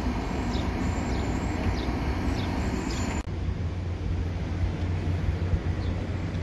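Passenger train in motion: a steady rumble and hum of the running train, with short high squeaks repeating about every half second over the first three seconds. The high hiss drops away suddenly about three seconds in.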